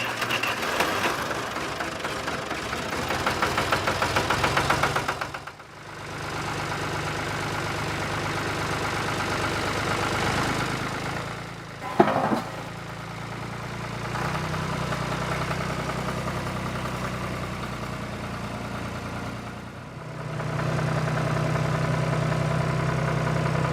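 Small motor running steadily with a fast, even buzz, heard as several segments separated by abrupt cuts. A brief sliding tone sounds at the middle cut.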